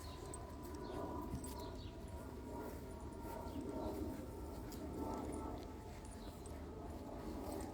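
Three-week-old Doberman puppies nursing from their mother: faint, irregular snuffling and suckling sounds.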